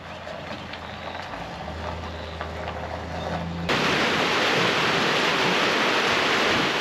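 Low, steady engine hum of a delivery truck driving away. About four seconds in it cuts to heavy rain, a loud even hiss.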